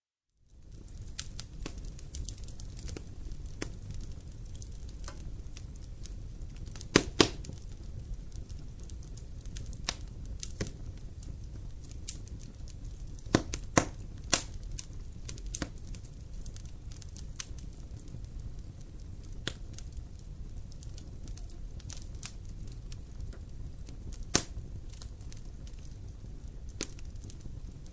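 Wood fire crackling in a fireplace: irregular sharp pops over a steady low rumble of the flames, with a few louder snaps, two close together about seven seconds in and another pair around the middle. The sound comes in suddenly just after the start.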